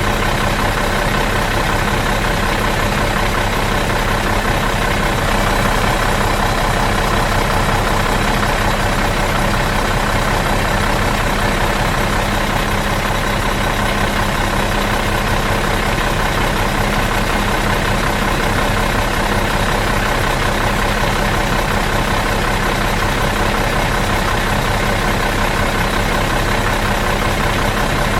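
Bus diesel engine idling steadily out of gear, an even, unchanging hum with no revving.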